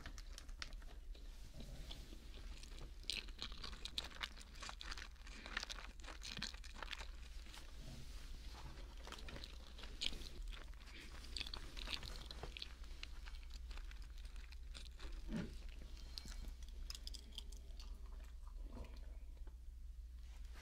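Close-up chewing of a mac and cheese sandwich: moist mouth sounds with many small crunchy clicks and smacks, busiest in the first half and thinning out later. Picked up very close on a binaural microphone.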